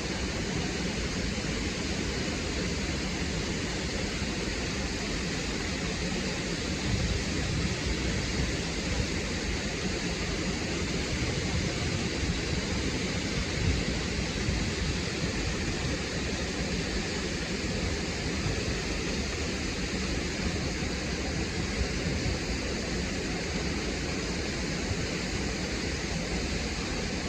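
Waterfall crashing onto rocks: a steady, full rushing of falling water with small irregular surges.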